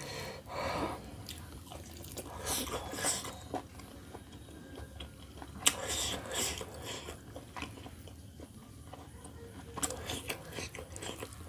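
A person chewing and biting roast chicken meat picked off the carcass by hand, in irregular clusters of short mouth sounds.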